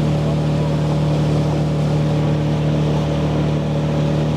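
Motorboat engine running at a steady cruising speed, an even hum with the rush of water and wind around the moving boat.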